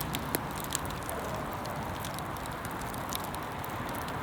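Open fire crackling: scattered sharp pops and snaps over a steady hiss.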